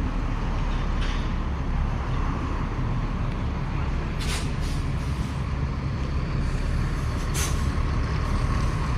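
Truck engine idling with a steady low rumble, with short hisses of air about four seconds in, again half a second later, and once more near the end.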